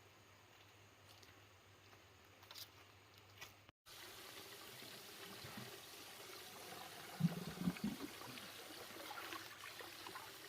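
Water trickling and pouring, faint, with a brief cluster of louder low knocks a little past the middle.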